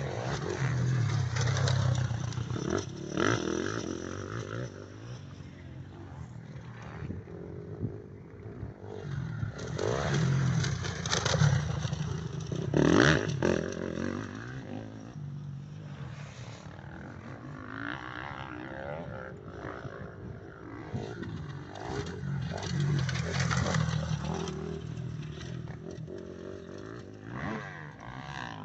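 Motocross bikes running on a dirt track, engines revving and swelling then fading as riders pass, loudest about two seconds in, around eleven to thirteen seconds, and again near the end.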